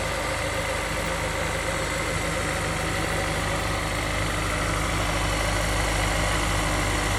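2002 Honda S2000's 2.0-litre four-cylinder F20C engine idling steadily, warming up after a cold start.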